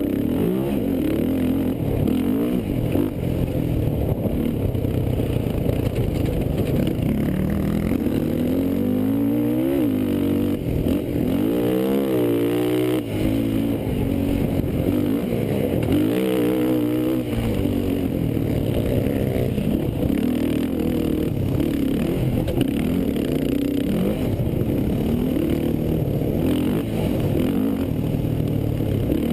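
Racing quad (ATV) engines revving hard, several overlapping, their pitch climbing and dropping over and over as they accelerate and back off. The strongest swing in pitch comes around ten to thirteen seconds in.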